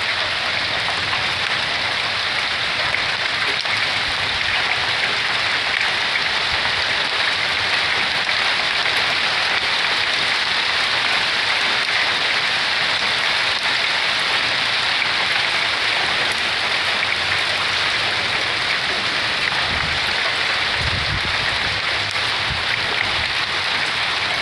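Pea- and marble-sized hail mixed with rain pelting down steadily, a dense unbroken hiss of stones hitting pavement and roof.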